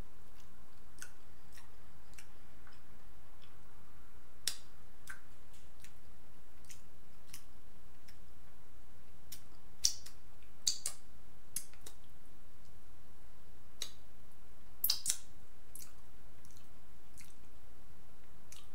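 Close-miked mouth sounds of someone eating a sauce-dipped boiled egg: wet chewing with scattered irregular lip smacks and clicks, a few louder smacks about ten and fifteen seconds in.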